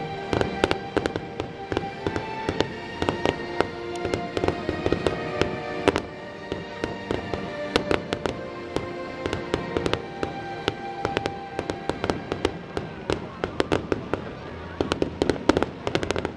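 Fireworks bursting and crackling in rapid, irregular pops, coming thickest near the end, with music playing behind them.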